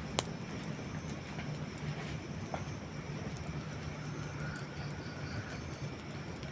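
Campfire of dry wood burning: a steady low rush of flames with one sharp pop right at the start and a few faint crackles after it.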